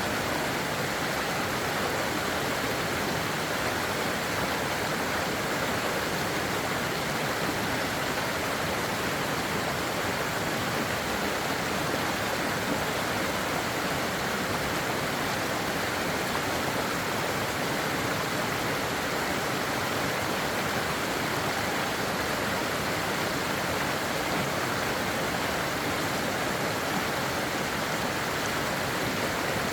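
Steady, unbroken rushing of running water, even and constant throughout.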